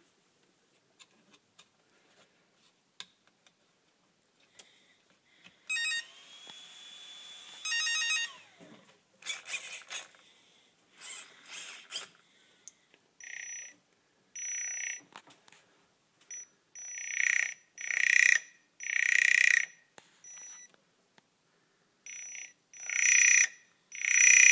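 Electric RC motor and its speed controller: about six seconds in, a short run of electronic beeps and a held tone, then a series of separate bursts about a second long, each with a high whine, as the motor jerks and fails to run smoothly. The uploader blames the fault on a bad motor.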